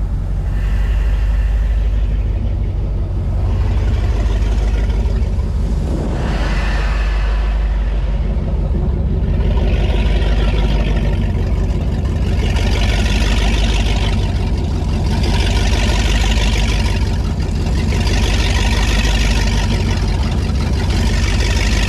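2002 Donzi Classic 22's engine running steadily with a deep exhaust rumble, while the engine warms up. A hiss swells and fades about every three seconds over the second half.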